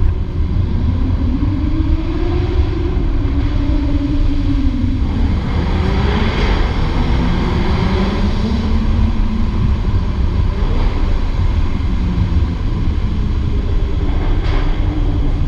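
Jaguar F-Type R's supercharged V8 heard onboard while driving, its note climbing and falling away twice over a steady heavy rumble of road and wind noise.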